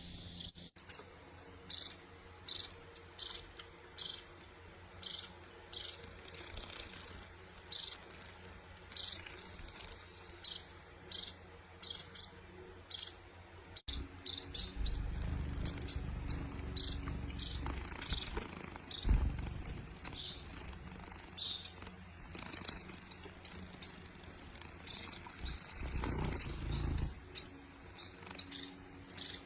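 Young munias chirping: short high chirps repeating about once or twice a second. There are low rumbling sounds about halfway and again near the end.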